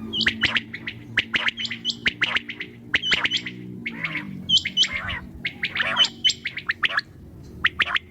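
Quail calling: rapid clusters of short, sharp high chirps, repeated again and again. A low steady drone sits under the first half and fades out about halfway.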